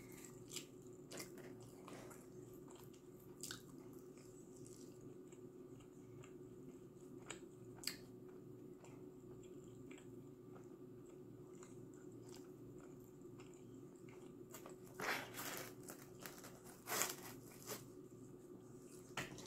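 Close-up eating: biting and chewing pizza crust, with scattered soft crunches and wet mouth sounds over a steady low hum. Two louder bursts of crunching come near the end.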